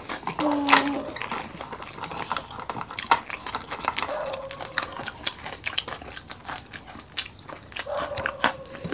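Close-miked mukbang eating: chewing and crunching of food with many small clicks, and a few short hums.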